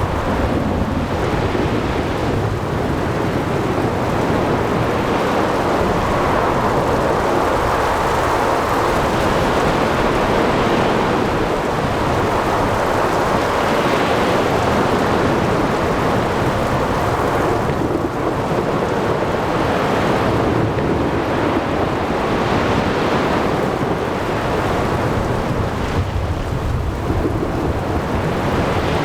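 Sea storm: steady heavy rain and wind over breaking waves, with a low rolling rumble of thunder that swells and fades in slow surges.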